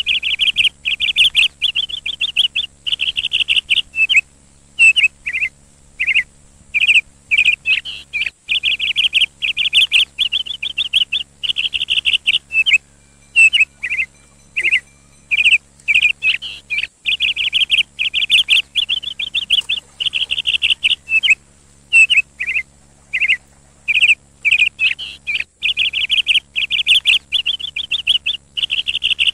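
Birds chirping in quick, repeated phrases: rapid trills of about a second alternate with short single chirps, with only brief gaps between them.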